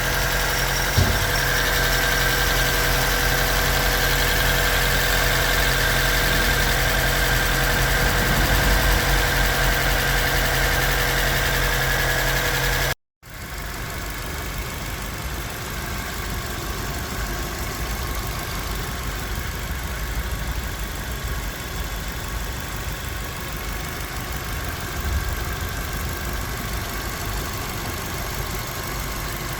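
Hyundai Getz G4EA four-cylinder petrol engine at 224,000 km idling steadily, with the ticking of its hydraulic lifters. About halfway through the sound cuts out for a moment and the engine carries on quieter.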